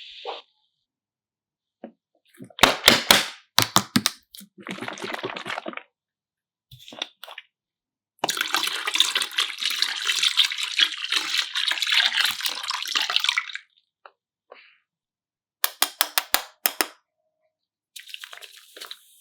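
Liquid being poured and splashing in several short bursts, the longest lasting about five seconds, separated by abrupt silent cuts, with clusters of sharp clicks or taps.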